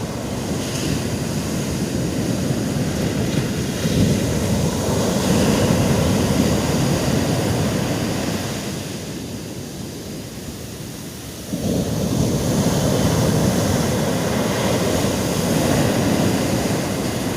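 Sea waves washing onto the shore, swelling and easing. The surf dies down somewhat past the middle, then a wave comes in abruptly and the level rises again.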